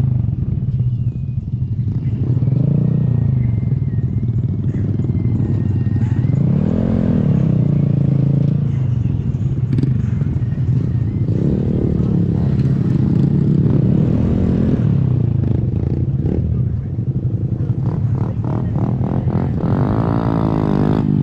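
Small single-cylinder Honda 125 motorcycle engine running on the move, its pitch climbing and dropping again about five times as the rider accelerates and shifts up through the gears.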